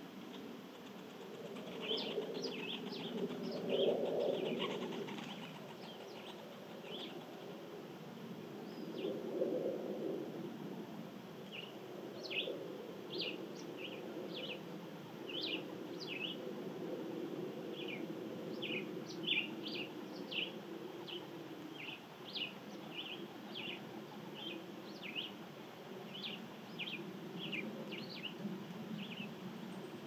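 Birds chirping in many short, quick notes all through, over a steady low outdoor background, with louder low swells of sound about two to five seconds in and again about ten seconds in.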